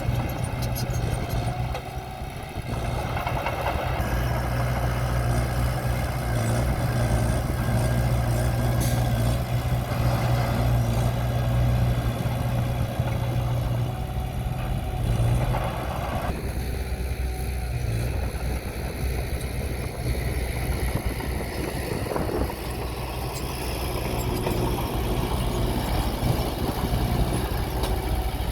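Diesel engine of heavy earthmoving equipment running, a steady low drone whose level and mid-range shift a few times as the machine works.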